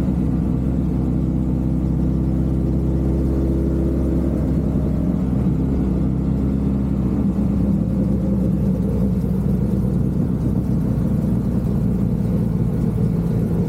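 Suzuki Hayabusa Gen3's inline-four engine running steadily on the ride, with a stack of engine tones that shift a little about halfway through.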